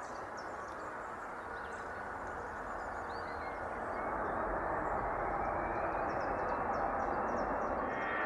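Jet airliner engines rushing and growing louder from about halfway through, with a faint whine slowly rising in pitch, as the aircraft comes closer. Birds chirp over it.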